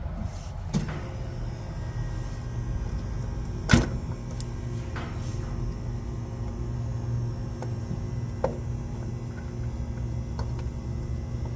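Steady low machine hum, with a few scattered clicks and knocks from tools and parts being handled; one sharper knock about four seconds in is the loudest.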